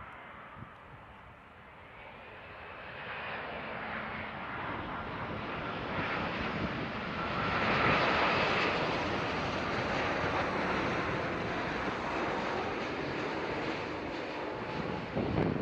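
Jet airliner passing, its engine noise swelling to a peak about eight seconds in with a faint whine, then holding; wind buffets the microphone near the end.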